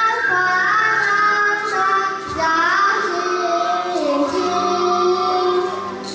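A group of young children singing a song in unison over a recorded musical accompaniment.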